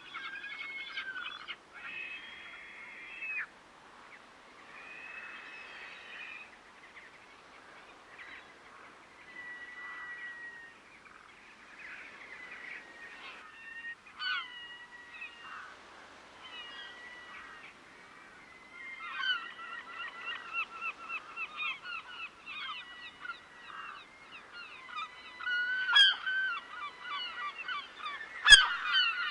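Waterbirds calling with honking calls, sparse at first and then a flock calling rapidly over one another for the last ten seconds or so. Two sharp clicks come near the end.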